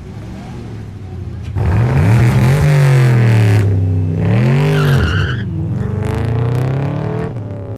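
A vehicle engine revving hard, starting suddenly about a second and a half in: it climbs in pitch and drops back twice, then runs on at a lower, steadier pitch.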